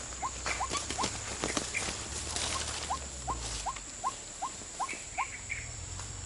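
White-breasted waterhen (ruak-ruak) calling in two runs of short, rising, evenly spaced notes, about three a second. Scattered clicks and rustles run alongside, over a steady high hiss.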